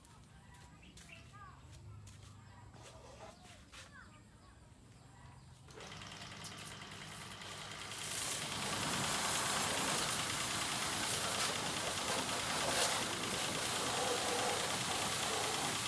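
Faint bird chirps, then a hiss of spraying water that starts about six seconds in and becomes loud and steady from about eight seconds in.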